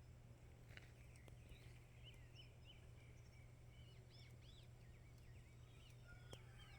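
Faint birdsong: many small birds chirping in quick, short, high notes, growing busier from about four seconds in.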